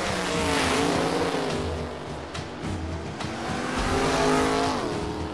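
Cartoon sound-effect car engine revving during a street race between a monster truck and a sports car, over a high hiss. Its pitch drops about half a second in, climbs again around three to four seconds in, then falls near the end.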